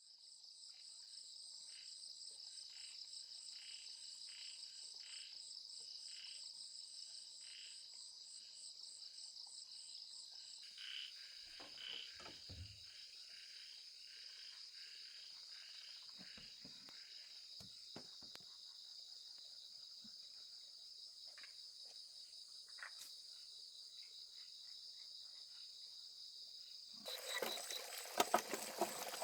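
Steady high-pitched chorus of crickets trilling, with a run of short repeated chirps below it for the first ten seconds or so and a few soft knocks. Near the end a louder sound of water pouring or splashing starts.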